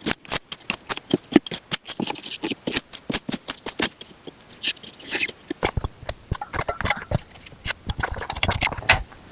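A rapid, irregular run of crunches, cracks and knocks, several a second, with heavier thuds in the second half.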